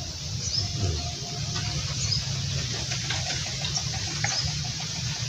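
Small birds chirping outdoors, short high chirps that sweep downward, repeating every second or so, over a steady low rumble.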